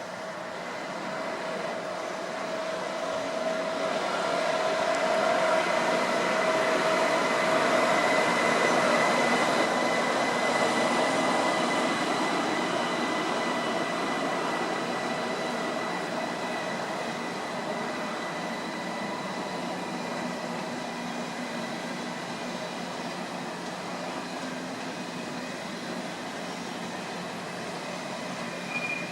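A train passing through a station. It builds to its loudest about eight seconds in and then slowly fades, with a steady high-pitched whine or squeal running through the rumble.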